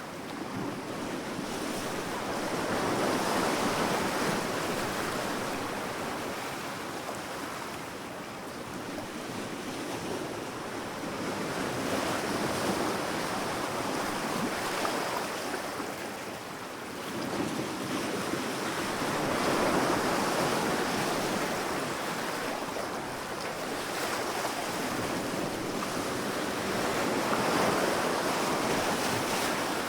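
Ocean waves breaking and washing up the shore, a steady surf that swells and eases every several seconds.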